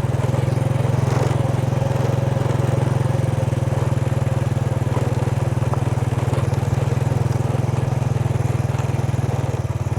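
Motorbike engine running steadily with a fast, even beat while the bike is ridden.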